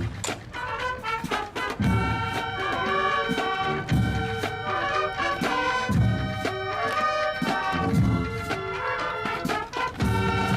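A band with brass instruments, trumpets and trombones among them, playing a tune with a low beat about every two seconds.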